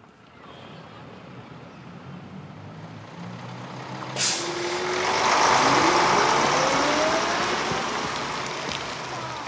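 A heavy motor vehicle, such as a truck, going by: its noise builds, peaks loudly in the middle with rising tones, and slowly fades. There is a sharp hiss like an air brake about four seconds in.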